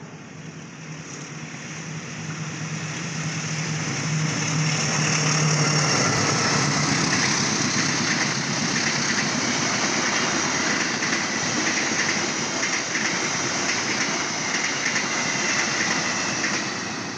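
A passing Indonesian diesel-electric locomotive hauling stainless-steel passenger coaches. The engine's drone swells over the first few seconds, then the coaches' wheels run loudly and steadily on the rails. The sound dies away near the end.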